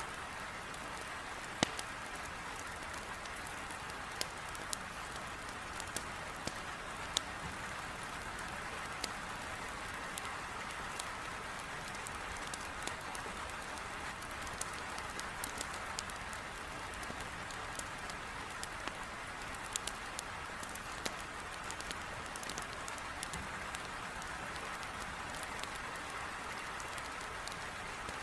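Heavy rain beating steadily on a window, mixed with the scattered sharp pops and crackles of firewood burning in a fireplace.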